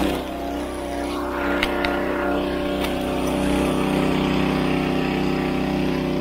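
An ATV engine running at a steady speed.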